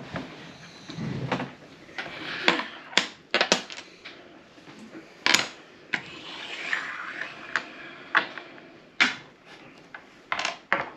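Hard game pieces clicking and clattering on a tabletop, about a dozen irregular clicks, with rustling from handling them in between.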